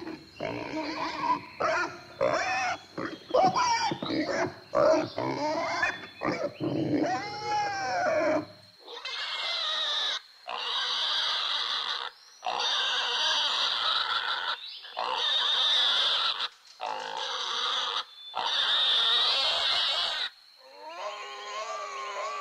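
Domestic pigs grunting and squealing: short grunts and squeals that bend in pitch for the first eight seconds or so, then a string of longer, harsher squeals about a second or two each, with short pauses between.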